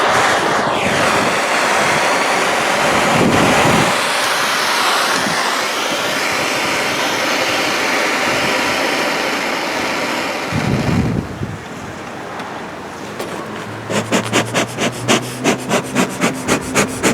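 Handheld butane torch hissing as its flame lights the fuel in a bee smoker, cutting off about eleven seconds in. A few seconds later the smoker's bellows are pumped quickly, about four puffs a second, to get the fuel smoking.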